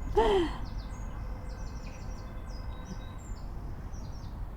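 Small birds at the feeders chirping and twittering in many short, high notes. Right at the start there is a short, louder call that slides downward in pitch, and a steady low rumble lies underneath.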